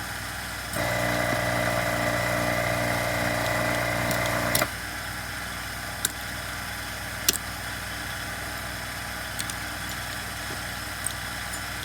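A steady machine hum with an even pitch starts about a second in and cuts off suddenly about four seconds later, over a constant low background hum; a few light clicks follow.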